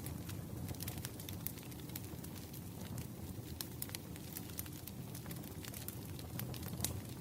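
Firewood burning steadily: a low rumble with frequent irregular crackles and pops.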